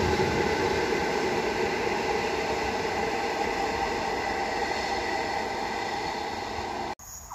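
A train running past on the rails, a steady rushing noise with several held tones that slowly fades, then cuts off suddenly near the end.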